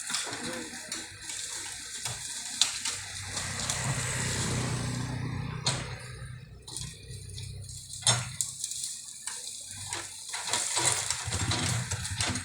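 Heavy equipment felling bamboo: a low engine hum under a rushing, rustling noise of bamboo foliage, with three sharp cracks of snapping stems spread through the clip.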